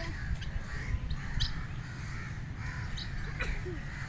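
Birds in an aviary calling: short, scattered calls, several within a few seconds, over a steady low rumble.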